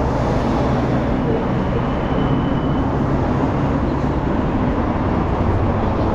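Steady rumble of city traffic, with a faint short high tone about two seconds in.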